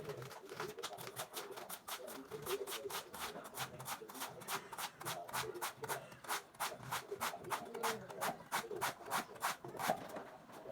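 A fast, even run of sharp strokes, about four or five a second, growing stronger a couple of seconds in, like a blade chopping steadily.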